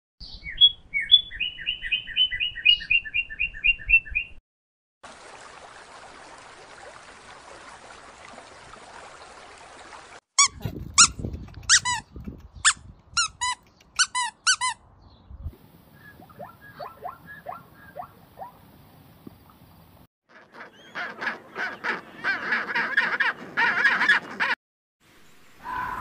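A run of separate animal clips. First, small songbirds chirp in quick repeated high notes. Then a Pomeranian puppy yaps in a string of short high barks, followed by fainter and then denser animal calls near the end.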